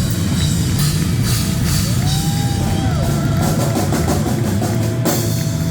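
A live rock band playing loud: a drum kit with cymbal crashes about a second in and near the end over a heavy bass line, with a held note bending up and back down in the middle.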